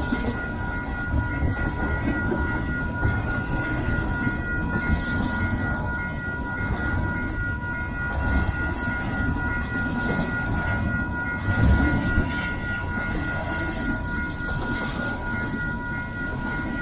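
Double-stack intermodal well cars rolling past close by: a steady low rumble of wheels on rail with clickety-clack and occasional knocks. A steady high-pitched whine runs over the rumble.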